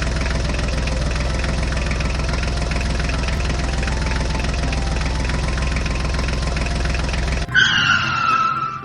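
Tractor engine running steadily, cutting off suddenly about seven and a half seconds in. It is followed by about a second of a high whistle-like tone gliding slightly down.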